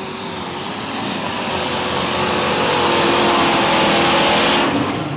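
Alcohol-burning super stock pulling tractor engine running at full throttle under load down the pull track, growing louder over the first four seconds. Its high-pitched hiss drops away sharply about four and a half seconds in.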